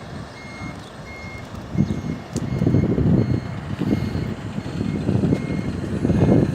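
Truck reversing alarm beeping at an even pace as the tractor-trailer backs up. A louder low rumble joins about two seconds in.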